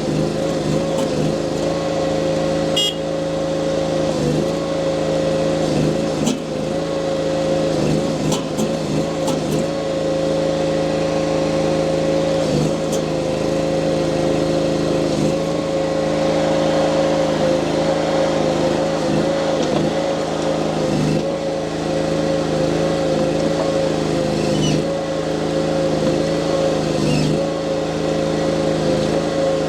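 Mini skid steer loader engine running steadily at high revs, its pitch dipping briefly every few seconds as it takes load.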